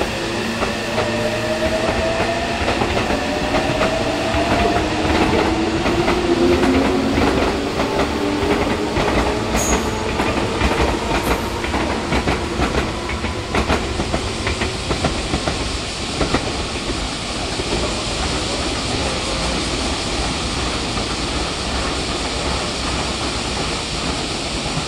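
Meitetsu electric train running at the station, its motor whine rising slowly in pitch over the first several seconds as it picks up speed, with the wheels clicking over the rail joints.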